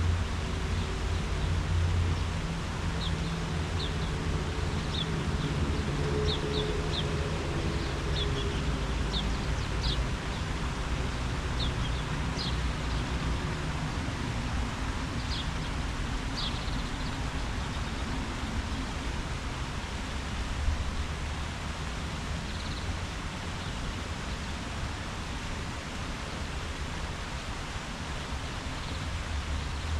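Outdoor ambience: a steady rush of leaves stirring in the wind over a low rumble, with a bird's short high chirps scattered through the first half.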